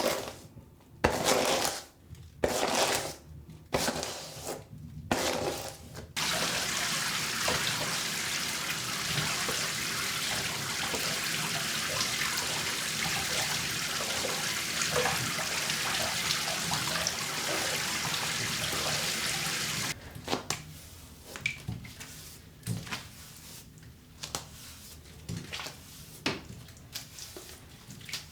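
Water running steadily from a tap into a sink for about fourteen seconds, then shut off abruptly. Short splashy bursts come before it and small drips and splashes after.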